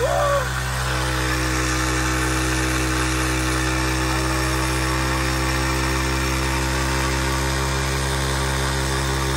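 Small motorcycle engine held at steady high revs during a burnout, its rear tyre spinning against the ground over burning petrol. The engine note stays at one even pitch throughout.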